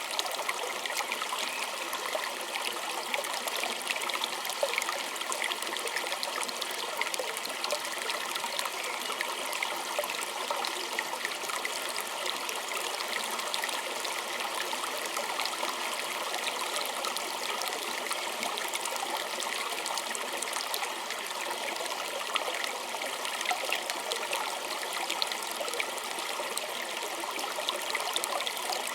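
Small stream trickling and babbling steadily over stones, full of fine splashes and drips.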